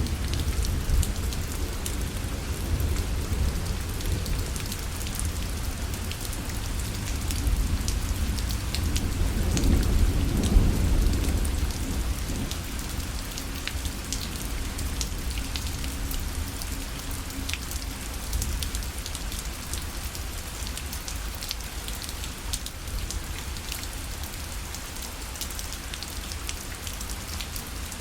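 Steady rain falling on a parasol, a dense patter of drops over a low rumble that swells for a few seconds around the ten-second mark.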